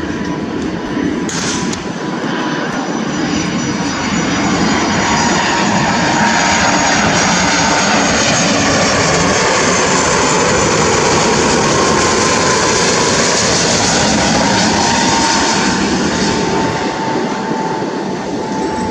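Jet airliner passing low overhead on approach to land: the engine noise swells over a few seconds, holds loud, then eases off near the end, with a whine that slides slowly down in pitch as it goes by.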